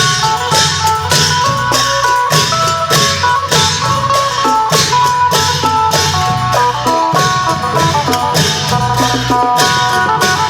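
Isan phin lute playing a quick plucked melody over klong yao long drums and cymbals keeping a steady beat.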